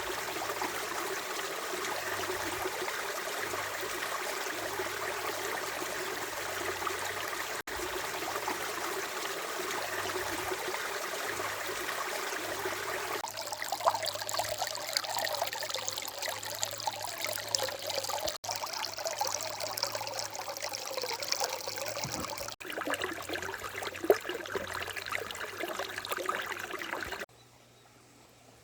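Running water, a small stream trickling and splashing steadily, in several takes joined with abrupt cuts. Near the end it drops suddenly to a faint sound.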